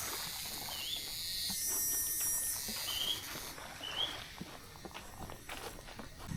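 Mangrove forest ambience: high-pitched insect buzzing that swells and fades in waves, a few short chirping bird calls, and scattered light clicks.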